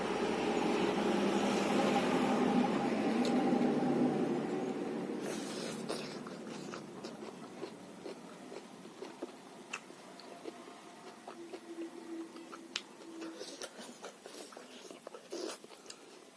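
Close-miked chewing and biting while eating roasted pork, leaf salad and rice: many small wet smacks and clicks. During the first five seconds a louder low rushing noise swells and then fades away under the chewing.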